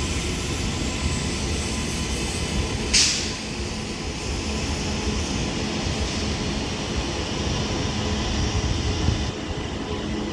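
Northern Class 331 electric multiple unit in the station, a steady low rumble and hum. A short sharp hiss comes about three seconds in.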